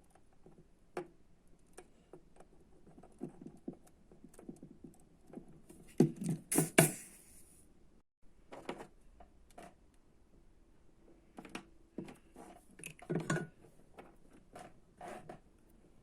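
Scattered small clicks and taps of handling work on a bench, with a louder brief clatter about six seconds in and another around thirteen seconds.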